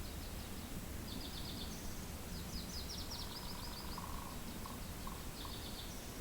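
Steady low wind rumble with a small songbird singing several rapid, high trills of repeated notes, from about a second in until near the end.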